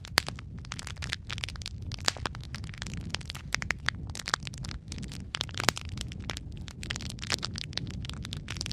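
Wood fire crackling in a fireplace: a steady low rumble of flames under frequent, irregular sharp pops and snaps.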